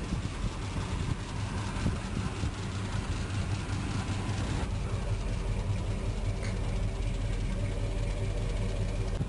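1968 Oldsmobile Cutlass engine idling steadily, a low, even rumble.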